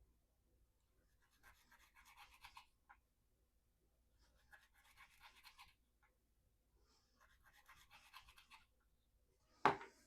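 Spyderco Endura 4's VG-10 blade with a toothy, low-grit edge drawn through rope three times, each cut a rasp of fibres parting lasting about a second and a half; the edge is still biting well. A sharp knock comes near the end.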